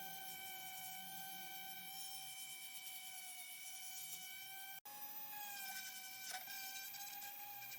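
A small high-speed power tool running at a steady speed, giving a high, even whine. The whine breaks off for an instant nearly five seconds in, then carries on, wavering briefly.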